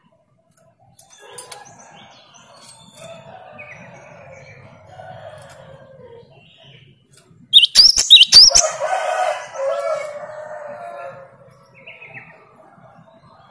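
Birds calling: faint background chatter, then about eight seconds in a loud, brief run of sharp rising high chirps with clicks, followed by a lower, longer call that rises and falls for a couple of seconds.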